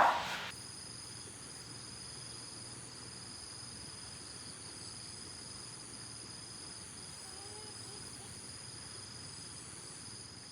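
A chorus of crickets trilling steadily, in high-pitched continuous tones. It starts abruptly about half a second in.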